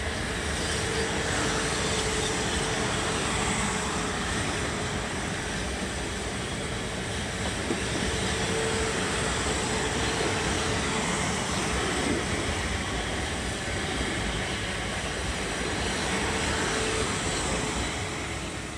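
South Western Railway electric multiple unit passing at speed: a steady rush of wheels on rail with a humming tone, one sharp click about eight seconds in, and the noise dropping away near the end as the last carriage goes by.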